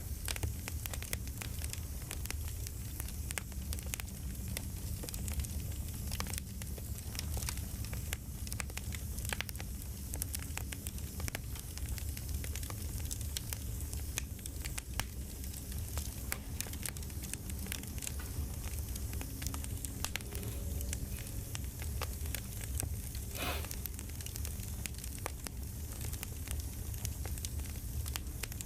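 Campfire crackling: a wood fire snapping and popping many times a second, irregularly, over a steady low rumble.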